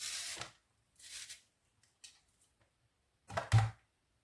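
Food being handled and portioned onto kitchen scales: short rustling scrapes at the start and about a second in, a small click about two seconds in, then two quick dull knocks a little after three seconds.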